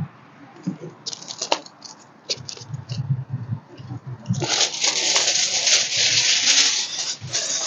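Aluminium foil crinkling as it is handled and wrapped around a breadfruit: a few scattered crackles at first, then dense, continuous crinkling from a little past halfway.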